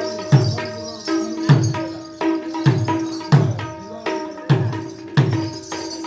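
Mridanga played solo in a steady rhythm: deep bass strokes that slide down in pitch, about every two-thirds of a second, alternating with sharp ringing strokes on the treble head.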